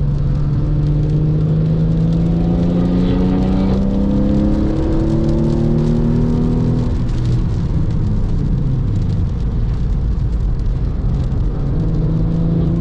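Porsche 996.2 Carrera's flat-six engine with a valved sport muffler, heard from inside the car under load: the revs climb steadily, drop off sharply about seven seconds in and run lower, then rise again near the end. A steady hiss of tyres on the wet track runs underneath.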